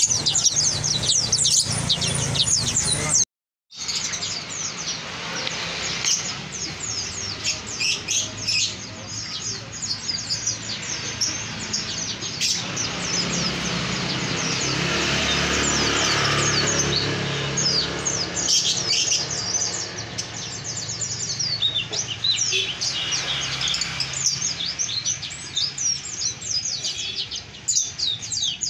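Many caged songbirds chirping and twittering together in a dense, continuous chorus of quick high notes. The sound cuts out briefly about three seconds in. A rushing noise swells and fades under the birds in the middle.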